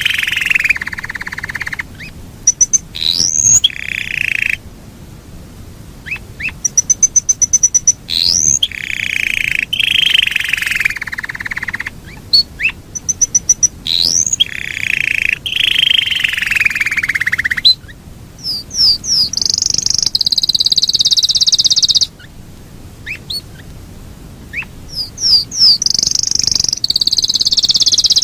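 Yorkshire canary singing a long rolling song. Sustained rolled trills alternate with runs of rapid repeated notes and quick upward sweeps, and the later phrases are higher, fast trills.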